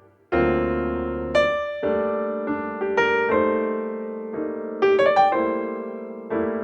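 Background piano music: struck notes and chords, each ringing and fading before the next, after a brief pause at the start.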